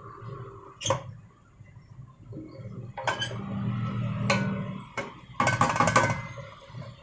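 Kitchen pots and utensils being handled: a few separate knocks and clinks, then a quick run of rattling clinks about five and a half seconds in.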